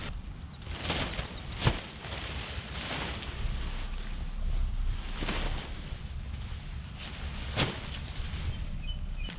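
Wind buffeting the microphone outdoors, a steady low rumble, with a few brief swishing or knocking sounds now and then.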